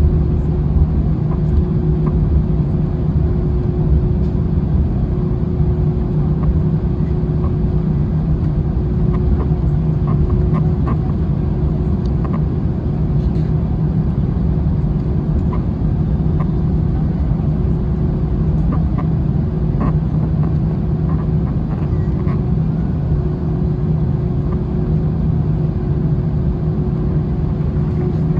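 Airbus A321 cabin noise with the jet engines at low power: a steady low rumble with a constant hum, and faint light rattles now and then.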